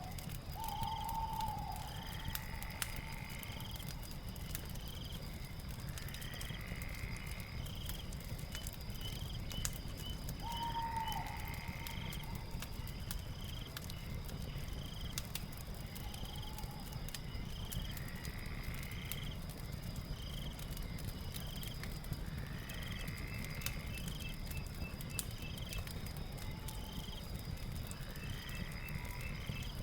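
Night ambience of insects and a crackling fire: a steady high insect trill with short chirps about once a second, and a rising call every few seconds. A fireplace crackles underneath with a low rumble and frequent small pops.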